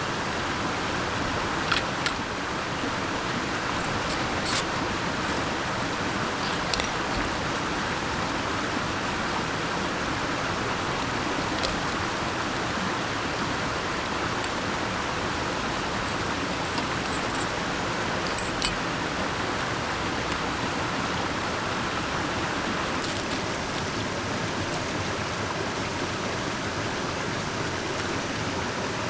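Mountain stream rushing steadily, with a few scattered light clicks.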